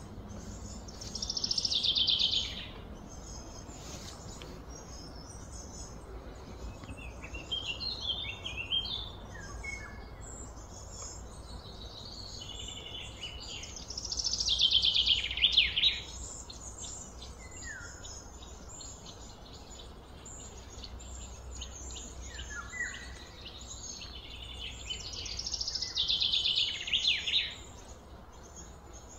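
Birds calling outdoors: a loud, quickly trilled phrase comes three times, about twelve seconds apart, with smaller chirps between, over steady low background noise.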